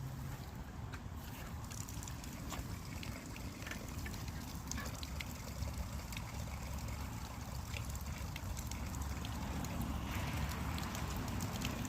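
Bicycle riding noise: a steady low rumble of tyres on the path and wind on the microphone, with scattered small ticks and crackles.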